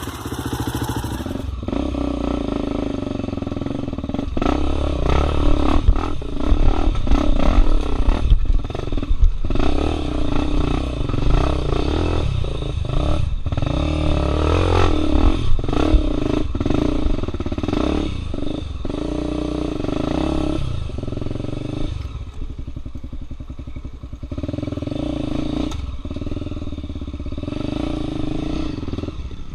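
Dirt bike engine revving unevenly at low speed while the bike is worked up a rocky hard-enduro climb, with clattering and scraping against the rocks. About two-thirds of the way through, the engine drops to quieter, steadier running.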